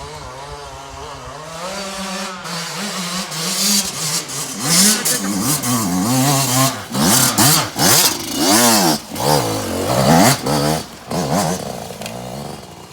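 Motorcycle engine revving hard in repeated throttle blips, its pitch rising and falling over and over after a steadier start.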